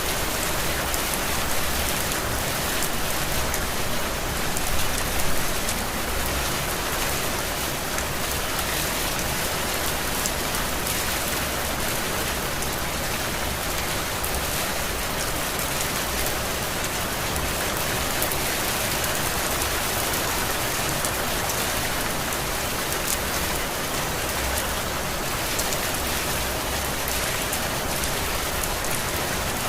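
Heavy rain falling steadily as an even hiss of drops on surfaces, briefly louder about five seconds in.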